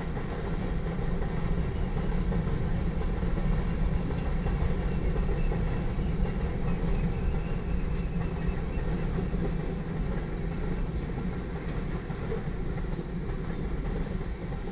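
Freight cars of a mixed manifest train, covered hoppers and boxcars, rolling past: a steady rumble of steel wheels on the rails.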